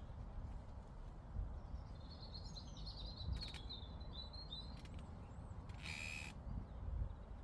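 Outdoor meadow ambience: wind rumbling on the microphone, with a small bird singing a twittering phrase from about two to four and a half seconds in. A short harsh sound comes about six seconds in.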